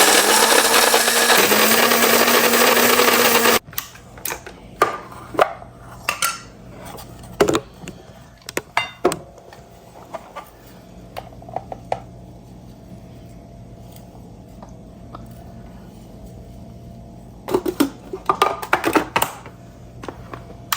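Secura electric coffee grinder grinding coffee beans on a coarse setting: the motor runs loudly for about three and a half seconds, its pitch stepping up slightly partway through, then stops. After it come scattered clicks and knocks, with a cluster near the end.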